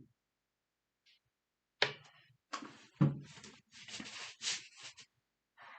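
Knife and fork cutting steak on a plate: a sharp clink about two seconds in, a louder one a second later, then a run of short scraping sawing strokes.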